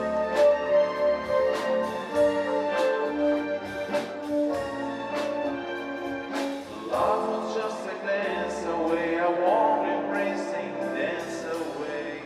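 Live band playing the slow instrumental closing bars of a ballad, with sustained melody notes over a bass line and regular percussion hits; the music dies away near the end.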